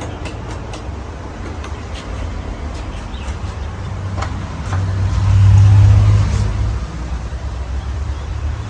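Hampton Bay Cameron II Plus 52-inch ceiling fan with a 188mm spinner motor, running. Its airflow rumbles low on the microphone and swells about halfway through, with a few light ticks near the start.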